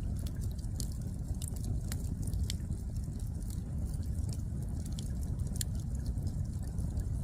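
Firewood fire burning, with many irregular sharp crackles and pops over a steady low rumble.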